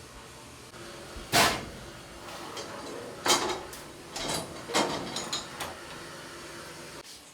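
Metal tools and parts being handled and set down on a workbench: a string of sharp clinks and knocks, about six in all, the loudest about a second and a half in, over a faint steady hum.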